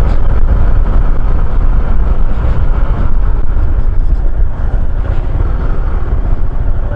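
Loud, steady riding noise from a maxi-scooter under way: a low rumble of wind and engine with no distinct engine note.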